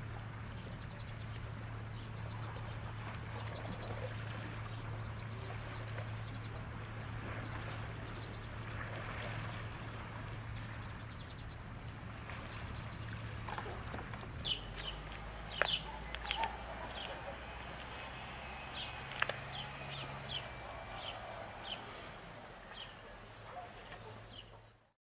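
A steady low hum with small birds chirping in short, high calls from about halfway through. The sound fades out near the end.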